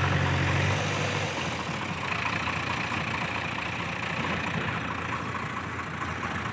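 Diesel tractor engine running, with a strong low hum that drops away about a second in, leaving the engine running more quietly and roughly.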